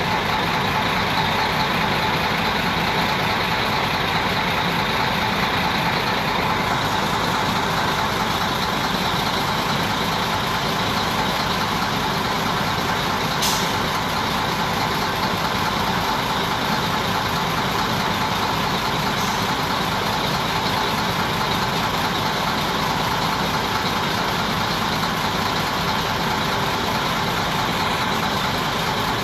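Steady motor vehicle noise, engine and road noise blended into a constant rush with faint steady tones. A brief sharp high sound about halfway through.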